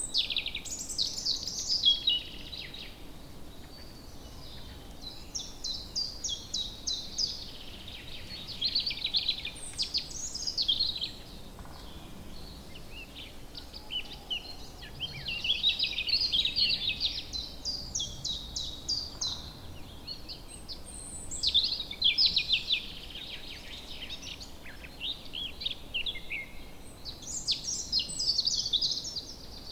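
Woodland songbirds singing: fast, high trilling song phrases recurring every few seconds over a faint steady background hiss.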